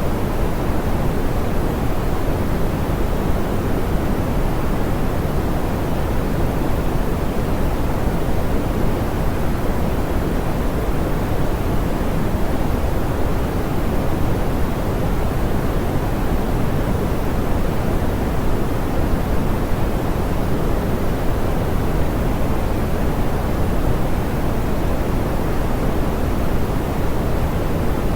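Steady, smoothed pink noise: an even hiss, fuller in the low end and softer toward the top, with no changes.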